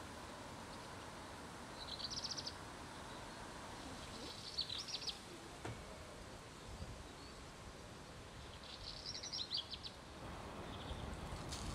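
A small songbird singing three short phrases of rapid, high repeated notes, over a faint steady outdoor background.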